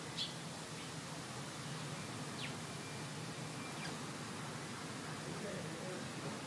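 Wild birds giving a few short, high chirps, scattered a second or two apart, over a steady faint hiss of woodland ambience.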